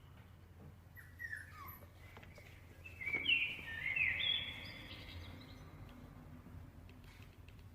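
Bird chirping sound effect played back: a few short falling chirps about a second in, then a louder run of quick rising and falling chirps about three seconds in.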